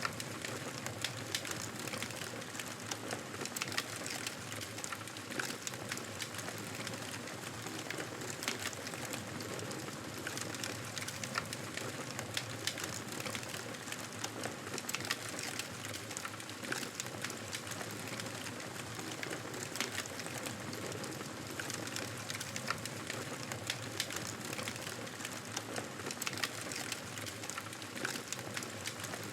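Wood campfire burning with a steady hiss and many irregular small crackles and pops.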